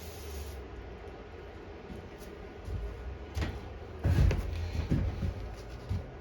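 A spray can of carburetor cleaner hisses and stops about half a second in. After that come scattered knocks and rubs as small carburetor parts are handled, the loudest a cluster of knocks about four seconds in.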